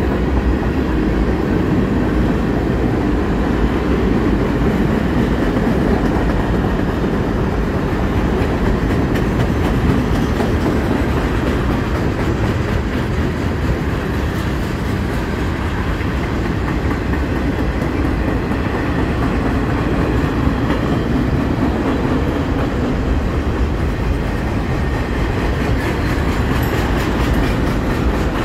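Freight cars of a mixed freight train rolling past at close range: a steady, loud rolling noise of steel wheels on the rails.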